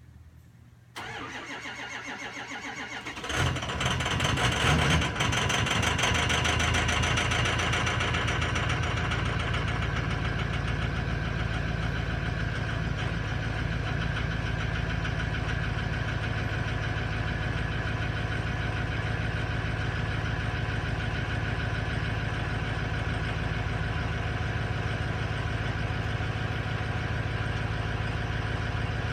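2005 Ford F-350's 6.0 Powerstroke V8 turbo-diesel cranking on the starter for about two seconds, then catching with a loud flare and settling into a steady idle. It is a cold start after three days sitting near freezing, on glow plugs with no block heater.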